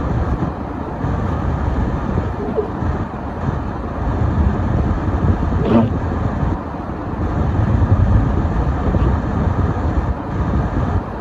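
Steady low rumble of a car's engine and tyres while driving on a snowy, slippery road. A brief higher-pitched sound cuts through about six seconds in.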